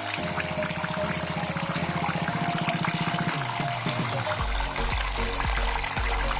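Water trickling and splashing steadily from a small homemade clay-pot fountain, mixed with background music.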